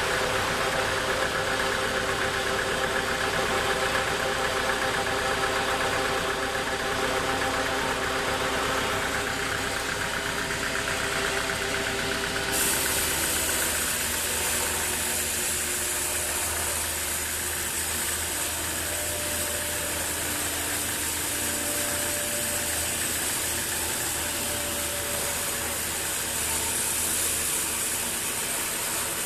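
Sawmill machinery engine running steadily. About halfway through, the sound changes: a high hiss joins and the engine's tones shift lower.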